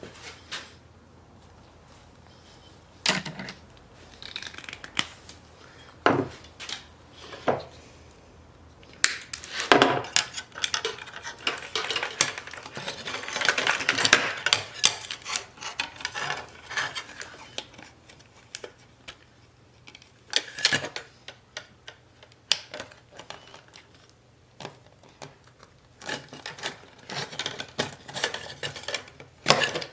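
Metal parts and tools clinking and clattering as they are handled. There are single knocks now and then and a busier stretch of rattling in the middle.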